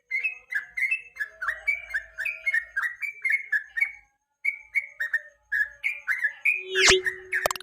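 Yellow-vented bulbul (trucukan) singing a fast, continuous chatter of short bubbly whistled notes, about four or five a second, with a brief pause midway. Near the end come a couple of sharp loud clicks.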